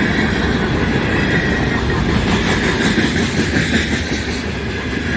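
Freight train cars rolling steadily past at close range: a continuous low rumble with wheels clattering over the rail joints.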